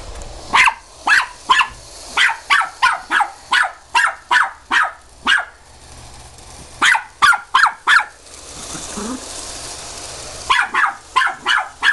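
Puppy barking in rapid short, high yaps, about three a second, in three runs with two short pauses, aimed at a toy train circling on its track.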